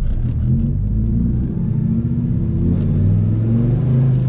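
Turbocharged 8.3-litre V10 of a Dodge Ram SRT-10 pickup running as the truck drives, heard from inside the cab, its exhaust dumping out at the fender. The engine note shifts about a second and a half in and climbs a little around three seconds.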